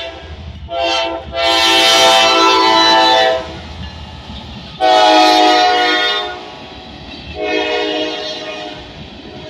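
Norfolk Southern AC44C6M locomotive's air horn sounding a series of blasts: a short toot about a second in, then two long blasts and a shorter one near the end. A low rumble from the train runs underneath.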